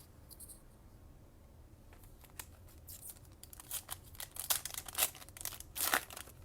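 Trading-card pack wrapper being torn open and crinkled by hand: a run of sharp crackles that grows busier partway through and is loudest near the end.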